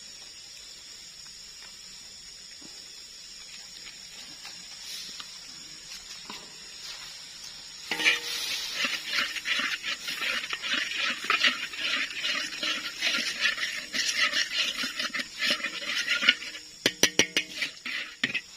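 A large cooking pot of river clams being stirred: the shells and spoon scrape and clatter irregularly from about eight seconds in, with a few sharp knocks near the end. Before that there is only a steady high drone of insects.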